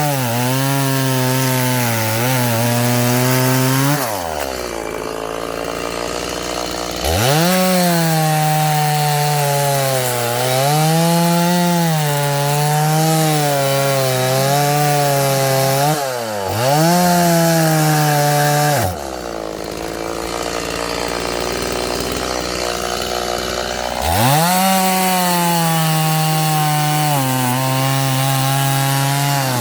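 Chainsaw cutting firewood logs, its engine pitch wavering as the chain bogs and recovers under load. It drops back to idle twice, about four seconds in and again around nineteen seconds, each time revving back up into the cut.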